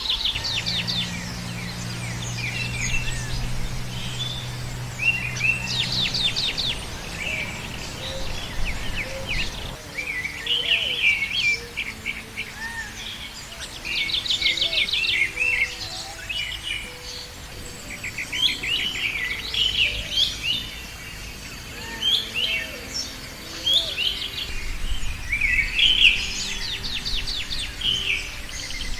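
Several small birds chirping and trilling in a busy chorus, with quick rapid-fire trills and short high calls overlapping throughout. A low steady hum sits underneath for about the first six seconds.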